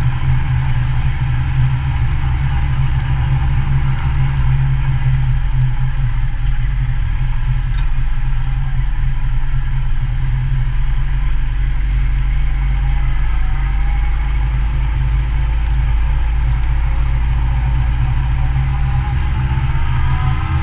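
Motorcycle engine running while riding, over a steady deep rumble. The engine note climbs in the second half and again near the end as it picks up revs.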